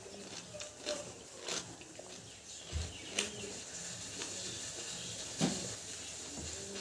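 Eating sounds: chewing and biting boiled food, with scattered sharp mouth clicks.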